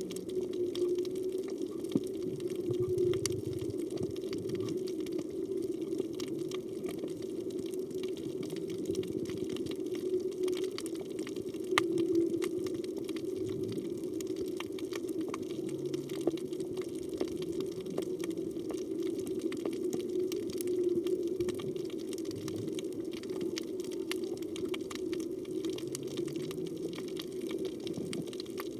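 Underwater reef ambience: a steady hum with scattered clicks, and a few faint low moans spaced through the clip, which the recordist takes for humpback whale song.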